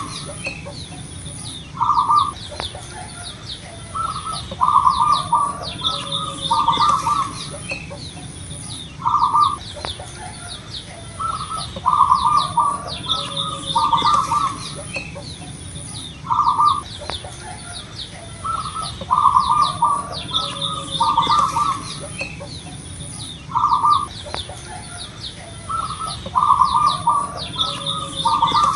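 Zebra dove (perkutut) cooing: short clusters of rapid, rolling coo notes repeated every two to three seconds, over higher thin chirps of small birds and a faint pulsing high buzz.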